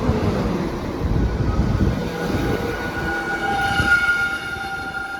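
Class 197 diesel multiple unit braking as it pulls into the platform: a low rumble of wheels on rail, with brake squeal rising from about a second in as several steady high tones, loudest about four seconds in. A bit of a racket.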